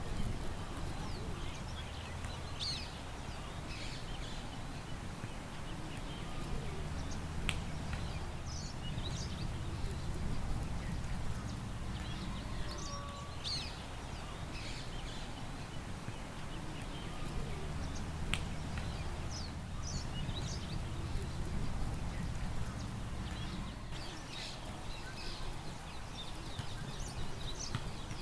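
Several small birds chirping and calling in scattered short phrases, over a steady low rumble of wind.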